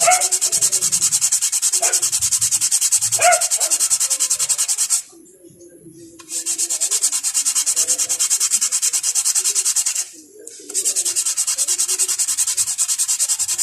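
Brake pad rubbed quickly back and forth on 120-grit sandpaper laid flat, to level its unevenly worn friction surface. It comes in three bouts of rapid, even scraping strokes, with short breaks about five seconds and ten seconds in.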